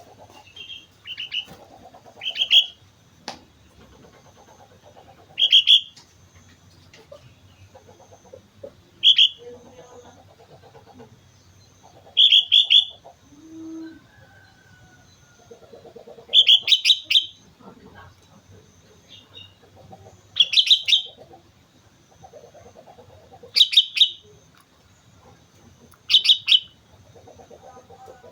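Sooty-headed bulbul (kutilang) singing: short, loud, bubbly phrases repeated about every three seconds, eight or so in all.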